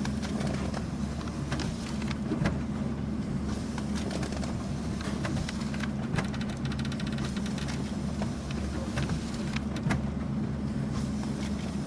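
Office printer running with a steady low hum, scattered clicks, and a brief fast rattle about six seconds in.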